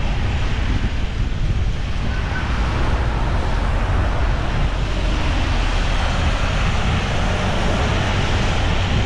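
Steady rain with a constant low rumble of wind on the microphone.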